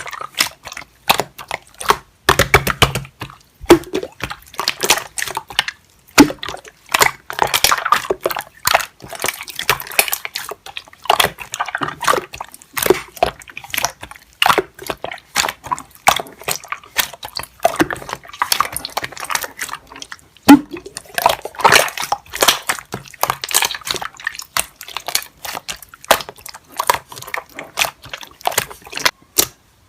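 Slime being squished, poked and stretched by hand, making a dense, irregular run of wet clicks and pops.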